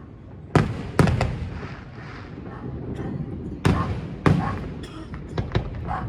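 Fireworks going off: about eight sharp bangs at irregular intervals, the loudest about half a second, one second and four seconds in, over a steady low rumble.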